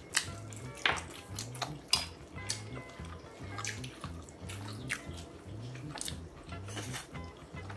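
Close-miked chewing with wet mouth clicks and smacks, over soft background music with a steady low beat.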